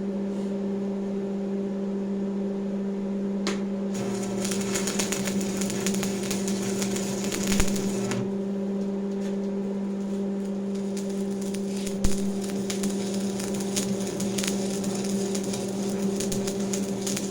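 A machine running with a steady, even-pitched hum. A harsh scratchy noise rides over it for most of the time, with two sharp knocks, and the sound winds down right at the end.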